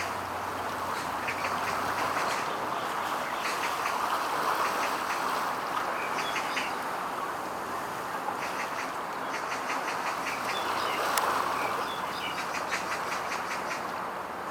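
Steady outdoor background noise, with short bursts of rapid clicky chatter recurring every few seconds.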